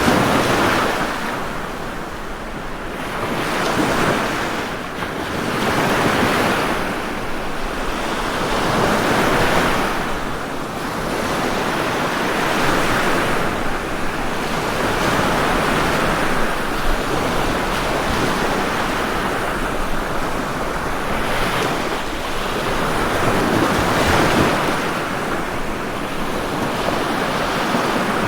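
Ocean surf washing onto a shore: a steady rush of breaking waves that swells and eases every few seconds.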